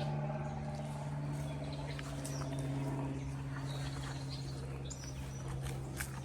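A steady low hum, with a few short bird chirps and scattered light clicks over it.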